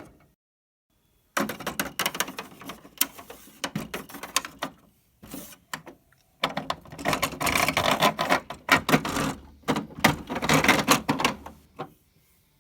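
Quick clicking and tapping of small plastic toy figures being hopped and handled on a hard surface, in two clattering runs: one starting about a second and a half in and a denser one from about six and a half seconds in.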